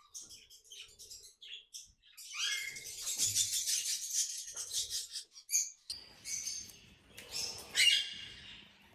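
Aviary parrots chirping and chattering. A few faint chirps are followed, about two seconds in, by a livelier flurry of high chirps lasting a few seconds, and another short burst comes near the end.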